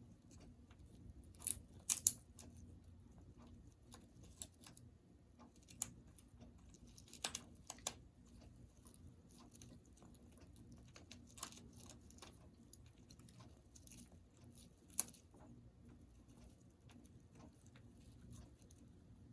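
Congo African grey parrot chewing apart a chew toy: irregular small crunches and clicks, with a few louder sharp snaps.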